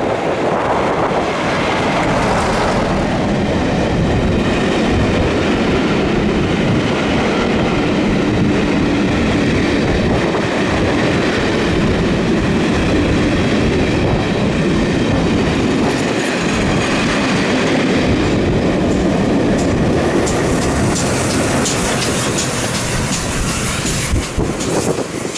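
Class 47 diesel-electric locomotive passing close by at speed, then its train of heritage passenger coaches rolling past with the wheels clattering over the rail joints. Sharper high ticks come in over the last few seconds.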